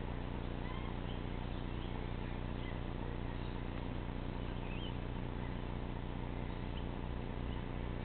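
Faint, scattered short rising bird chirps over a steady low hum and hiss.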